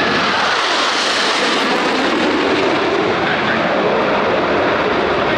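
Blue Angels F/A-18 Super Hornet jets passing in flight, a loud, steady jet-engine rush.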